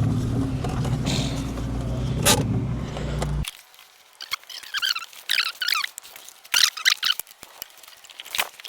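A Subaru Impreza's freshly installed flat-four engine running, with the slight misfire the mechanics call 'потраивает', then stopping abruptly about three and a half seconds in. After that come short, high, wavering chirps and a few light ticks.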